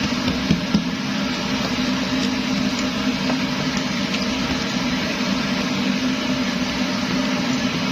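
Kerosene pressure stove (primus) burning with a steady hissing rush of flame and a low hum underneath, unchanging throughout.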